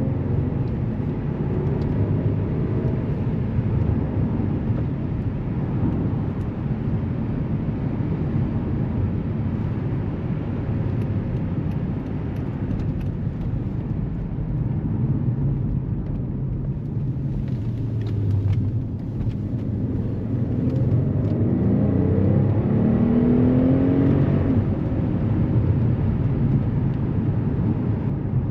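Mercedes S65 AMG's 6.0-litre twin-turbo V12 running at speed with steady road and tyre noise, then accelerating about three-quarters of the way through, its engine note rising in pitch for a few seconds. A few faint ticks in between.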